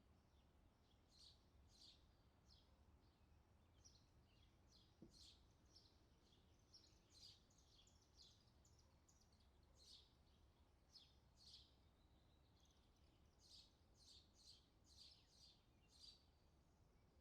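Very faint bird chirps: many short high calls, in places several a second, over a low steady background rumble.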